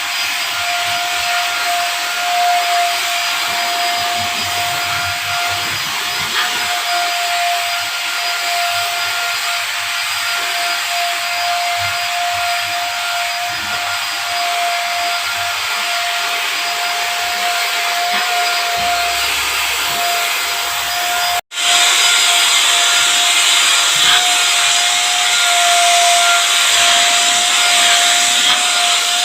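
Vacuum cleaner running steadily, a loud rushing hiss with a constant whine. It cuts out for an instant about two-thirds of the way through, then resumes slightly louder.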